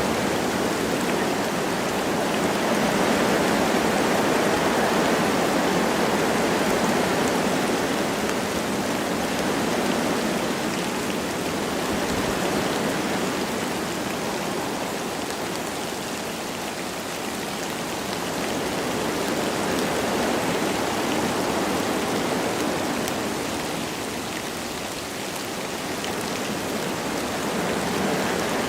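Wind rushing through forest trees with light rain pattering, the gusts swelling and easing slowly every several seconds.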